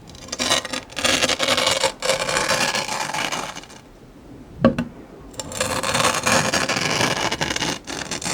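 Close-miked chewing of crunchy fruit: two long stretches of crunching, with a single sharp click, such as a bite, between them.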